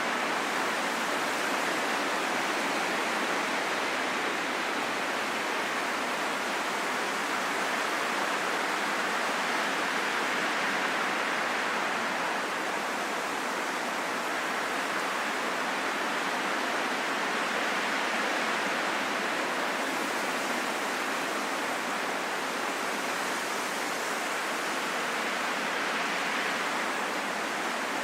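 Calm wind blowing as a steady rush without whistling or howling tones, slowly swelling and easing over several seconds.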